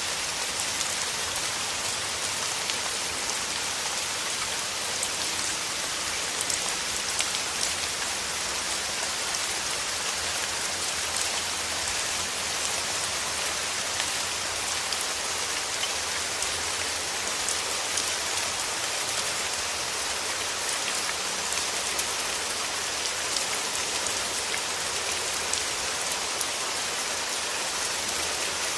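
Steady rain falling, a continuous hiss of many small drops pattering on surfaces with no let-up.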